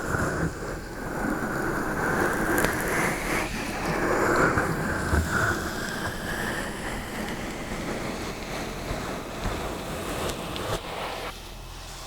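Close-miked ASMR trigger sound: continuous scratching and rustling right on the microphone, with many small clicks, thinning out about a second before the end.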